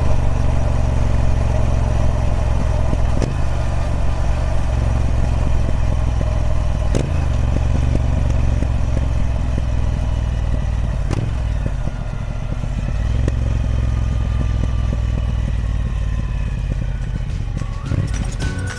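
Triumph Speed Twin 1200's 1200cc parallel-twin engine running on its stock exhaust, with a sharp click about every four seconds. It settles a little quieter about two-thirds of the way through.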